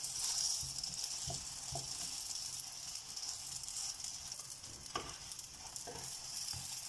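Frozen paratha frying in a little oil in a non-stick pan: a steady sizzle, with a few light knocks of a spatula against the pan as it is pressed and turned.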